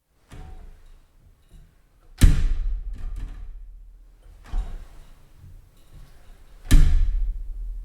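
Glass shower door being worked: two loud knocks of the door against its frame about four and a half seconds apart, each followed by a ringing decay. Quieter handling sounds and a smaller knock come between them.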